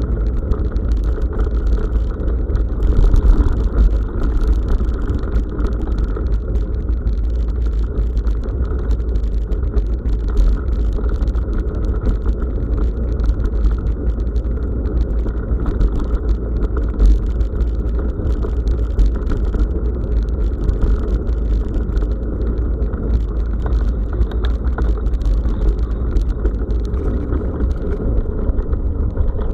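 Bicycle riding over a gravel forest road: steady tyre rumble with many small clicks and rattles, and heavy low wind buffeting on the action camera's microphone.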